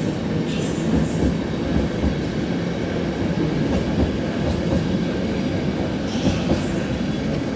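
A train running along a station platform track: a steady heavy rumble of wheels on rails with some clickety-clack over the rail joints, and a brief higher screech or hiss about six seconds in.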